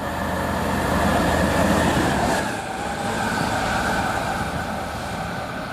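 Class 66 diesel locomotive running light engine past at line speed, its two-stroke V12 diesel engine running under the steady rush of wheels on the rails. The sound swells to its loudest around the middle and then eases off slightly as it passes.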